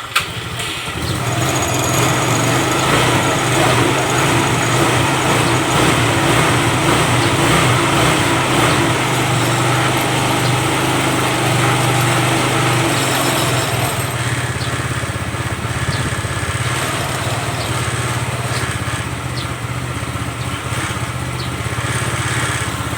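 Small motorcycle engine running just after catching, idling steadily and easing slightly about fourteen seconds in. It is running again after a no-start caused by dirty battery terminals, a loose ground wire and a dirty spark plug.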